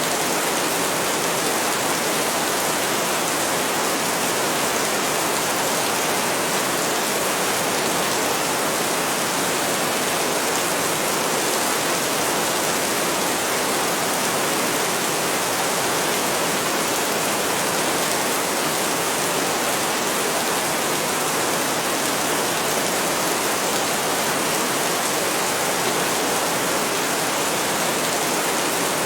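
Heavy rain falling as a steady, even hiss, with no thunder or separate drops standing out.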